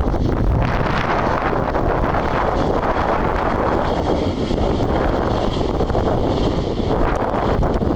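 Strong wind buffeting the microphone over the steady rush of an Airbus A320's CFM56 jet engines as it comes in to land. A higher whine rises in about halfway through and fades near the end.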